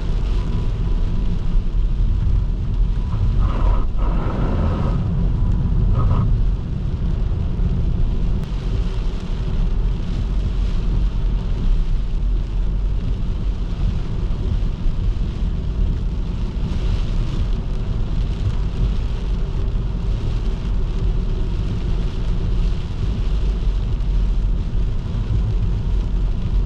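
Car driving along a wet road: a steady low rumble of engine and tyre noise. A brief higher-pitched sound rises over it about four seconds in.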